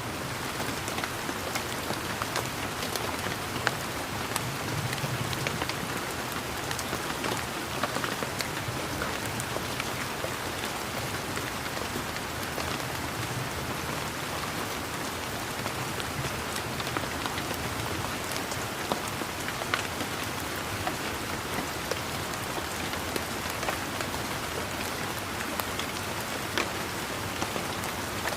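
Steady rain: an even hiss with many separate raindrops pattering.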